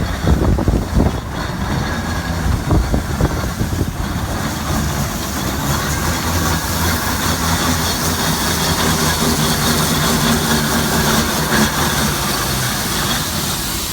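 Heavy vehicle running at low speed. Irregular low knocks in the first few seconds give way to a steady engine drone with a low hum.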